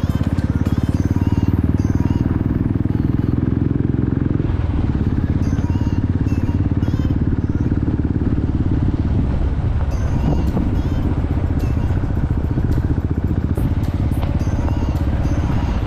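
Motorcycle engine running steadily, a dense low rumble of fast firing pulses.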